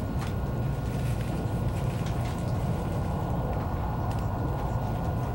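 Inside a passenger car of an ICE high-speed train running along the line: a steady low rumble from the wheels and running gear, with a faint steady whine above it and a few light clicks.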